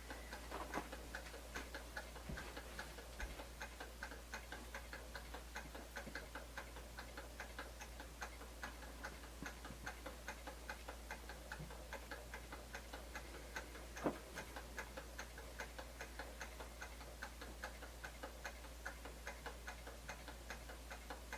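Small Stirling engine running on a cup of hot water, its moving parts ticking steadily at about four clicks a second as the heated gas drives the piston and flywheel. One louder click comes about two-thirds of the way through.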